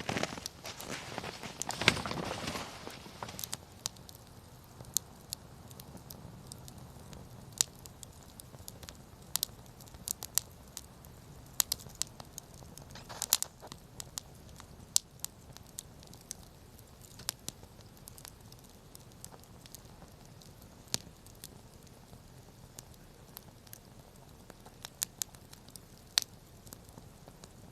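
Wood campfire crackling, with sharp pops scattered irregularly throughout. A louder rustling, crunching noise fills the first three seconds or so, and a shorter one comes about thirteen seconds in.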